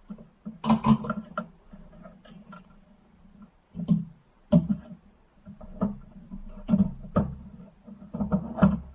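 Irregular clicks and knocks of small tool parts and hand tools being handled and set down, in uneven clusters.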